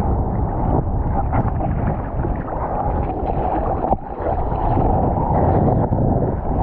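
Strong wind buffeting the microphone, a loud, rough, gusting rumble that dips briefly about four seconds in.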